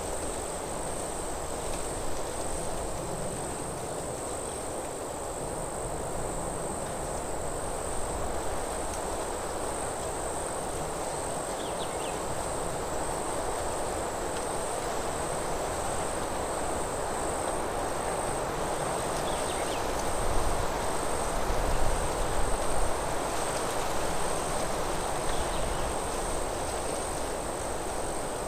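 Forest ambience: a continuous high-pitched insect trill over a steady rush of wind in the trees, which swells with low gusts about two-thirds of the way through. A couple of faint short bird chirps are heard.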